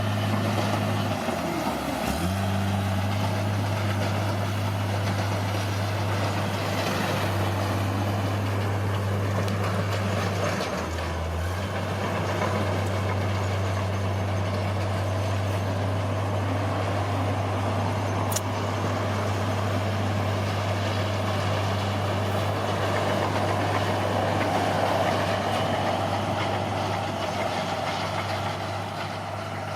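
Bulldozer's diesel engine running steadily, its note dropping briefly twice, about two seconds in and again around eleven seconds.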